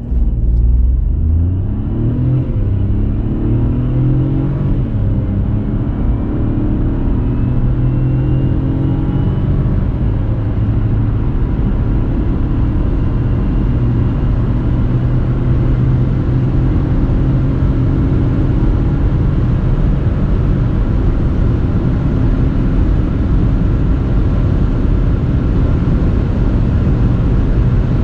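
Nissan Juke 1.0 DIG-T's three-cylinder turbo petrol engine accelerating hard through its seven-speed dual-clutch gearbox. The engine note climbs and drops back with quick upshifts in the first several seconds, then settles into a steady drone as speed builds.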